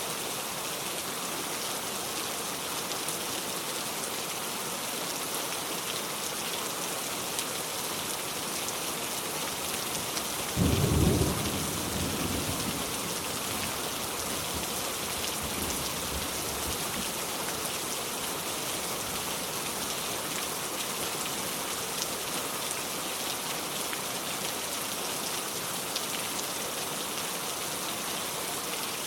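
Steady rain, with one clap of thunder about ten seconds in that rumbles low and dies away over a couple of seconds.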